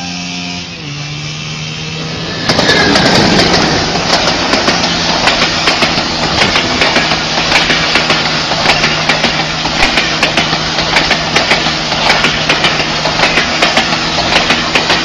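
Train running past close by through water, a loud rush with rapid clattering that sets in about two and a half seconds in. Under it a steady droning tone steps down in pitch about a second in.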